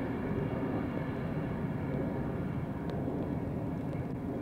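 A train running by with a steady rumble and a constant engine hum.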